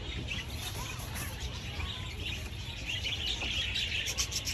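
Birds chirping and twittering in short high notes over a steady low background rumble, growing busier toward the end.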